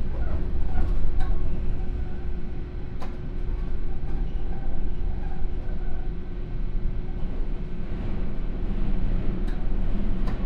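Sotetsu New 7000 series electric train car, with Hitachi GTO-VVVF drive, heard from inside while running. There is a low rumble of wheels on the track, a steady hum, and a few sharp clicks from the rails.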